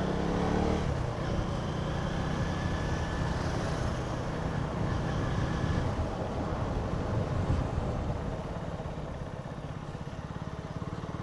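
Motorcycle engine running steadily as the bike moves off and rides on.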